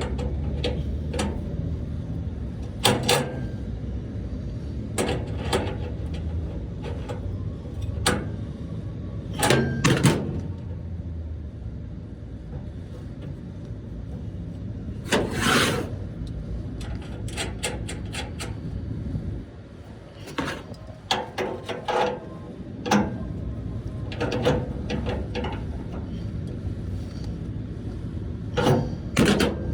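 Metal knocks and clanks from hand-tool work on an air-conditioning unit's belt drive during a belt change, scattered and irregular, over a steady low hum that drops away about two-thirds of the way through.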